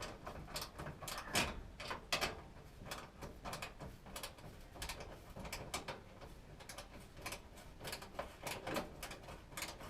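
Ratcheting wrench clicking as it backs out a screw on a furnace draft inducer blower: a string of sharp clicks, about two or three a second.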